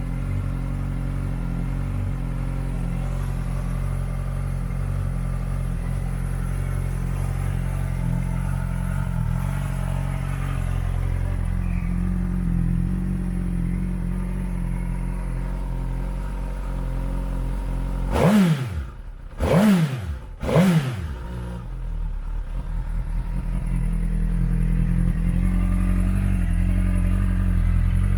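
Suzuki GSX-S1000's inline-four engine idling through a Yoshimura aftermarket exhaust. About two-thirds of the way in the throttle is blipped three times in quick succession, each rev rising and falling back, before it settles to idle again.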